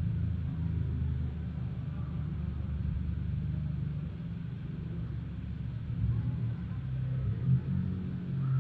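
Cat purring close to the microphone, a steady low rumble.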